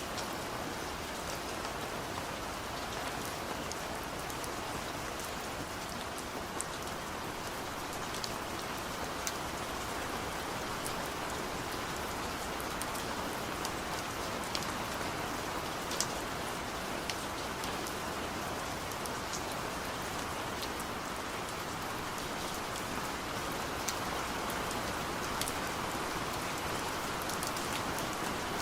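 Steady rain falling and pattering on a surface, an even hiss with scattered sharper drop ticks throughout.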